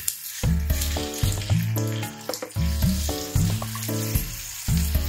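Corn kernels sizzling in a small pan as a spatula stirs and scrapes through them, with a crackling hiss throughout. Background music with a repeating bass line and held notes plays over it.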